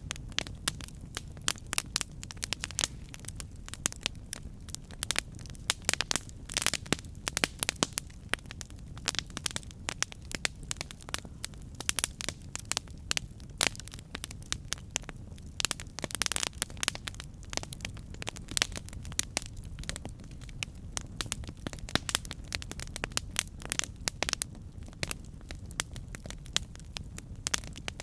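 Campfire burning: frequent irregular crackles and pops of burning wood over a steady low rumble of flame.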